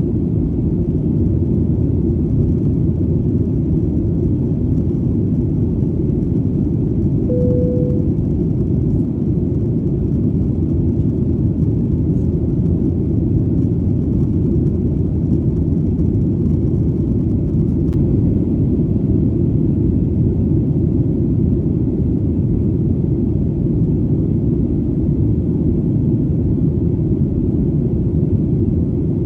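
Steady, deep rumbling drone of an airplane in flight, even and unchanging throughout. A brief single tone sounds about seven seconds in.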